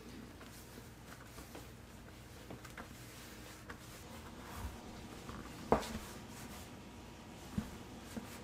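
Quiet room with scattered light taps and clicks over a faint low steady hum, broken by one sharp knock a little past halfway and a smaller knock later on.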